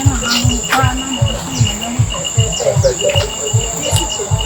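Insects trilling: a steady high buzz and a quickly pulsing chirp, with a few bird calls and a regular low thumping about four times a second.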